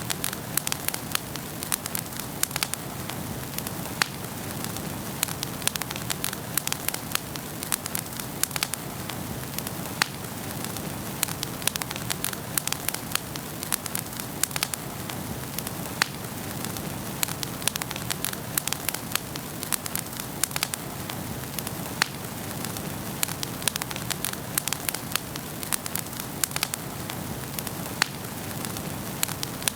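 Wood fire burning in a fireplace, with a steady hiss and frequent sharp, irregular crackles and pops.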